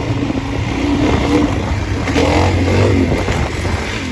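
Dirt bike engine running under throttle while riding, its pitch rising and falling, with a brief rev about two seconds in.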